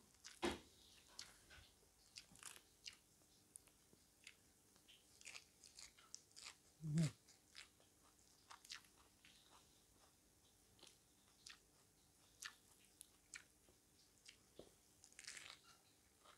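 Close-up eating sounds of fried chicken and lettuce: quiet, irregular crunches and chewing clicks. There is a sharper knock just after the start and a brief low sound about seven seconds in.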